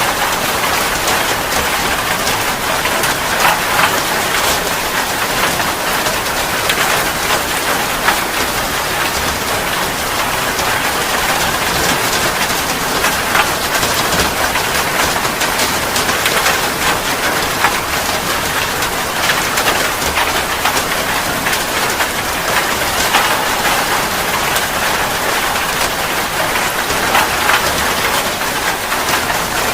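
Heavy rain falling steadily: a dense, even hiss of many drops hitting a surface.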